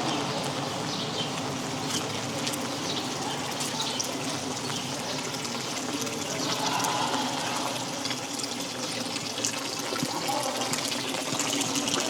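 Steady rain with water running and trickling, under a dense patter of drops.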